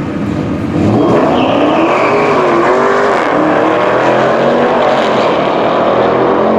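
Muscle-car drag racing engines launching at full throttle. About a second in the engines jump in loudness and rise in pitch, drop back at a gear change just after three seconds, then keep running hard.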